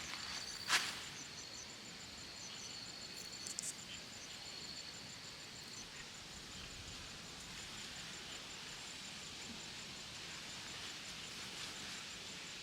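Insects chirping in a fast, even, high-pitched pulsing trill over a steady outdoor hiss, fading after about six seconds. A sharp click comes about a second in, and a few smaller ones come a few seconds later.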